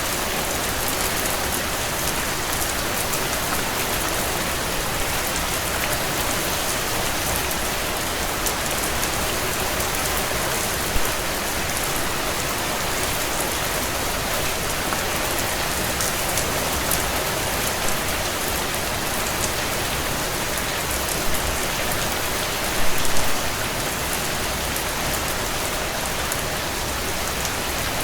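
Heavy rain falling on a tin roof: a steady, even hiss of rain with many small drop clicks, and a few louder drop hits, one about a third of the way in and a short cluster later on.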